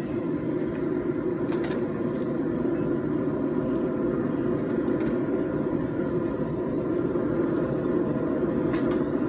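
A forge running steadily, a continuous rushing hum with a faint pitched drone in it, and a few light clicks.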